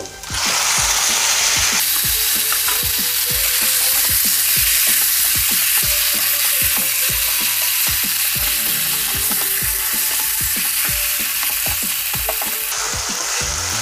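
Yogurt-marinated chicken sizzling loudly in hot oil in a pan as it is tipped in on top of fried onions. The sizzle surges up just after the start and goes on steadily while it is stirred, with light knocks underneath.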